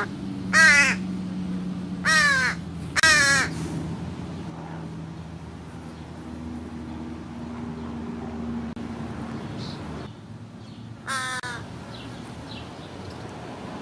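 American crow cawing: a quick run of three loud, harsh caws in the first few seconds, then a single caw about eleven seconds in. A faint steady low hum runs underneath.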